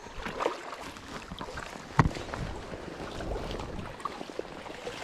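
Creek water splashing and sloshing as a hooked bass is played in close. There is a sharp knock about two seconds in.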